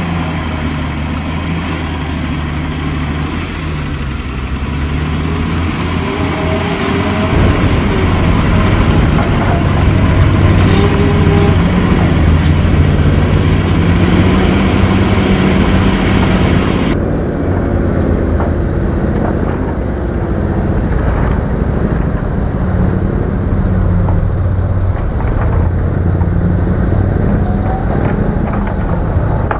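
Heavy diesel engine of construction machinery running under load, its pitch rising and falling as the throttle changes. The sound changes abruptly about 7 and 17 seconds in.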